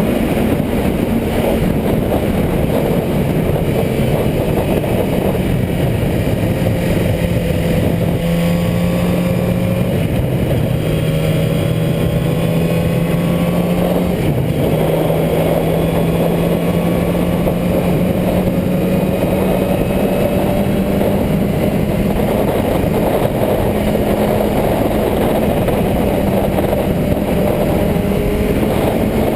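Motorcycle engine running steadily under way over a constant rush of noise, its note shifting up and down in pitch a few times.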